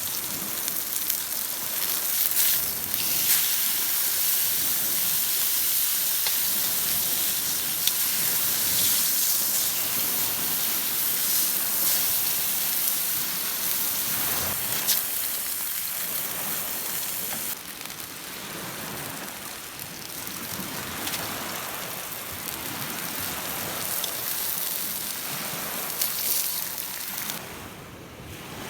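Steady hiss dotted with small crackles from campfire cooking, stepping down in level about two-thirds of the way through.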